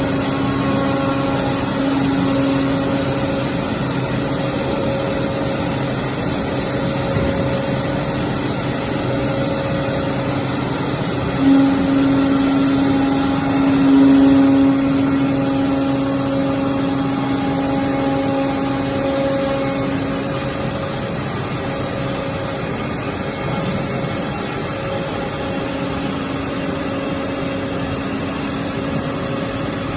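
CNC solid-wood cutting machine running with a steady mechanical hum, swelling a little louder about a third of the way through and easing back afterwards.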